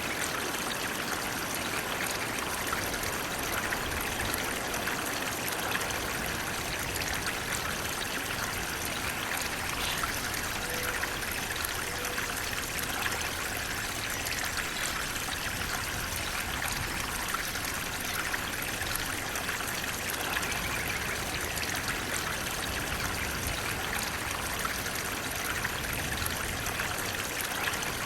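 Flowing water: a stream babbling and trickling steadily, an even splashing hiss.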